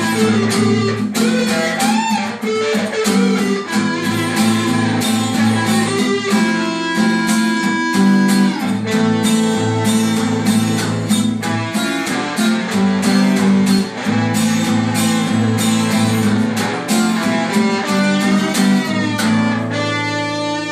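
Guitar playing an improvised piece: a steady run of plucked notes over ringing bass notes.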